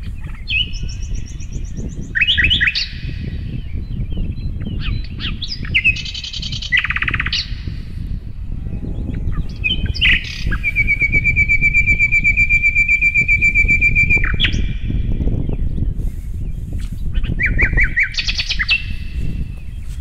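A songbird singing in separate phrases of quick chirps and whistles, one of them a long rapid trill held for about four seconds, over a steady low rumble.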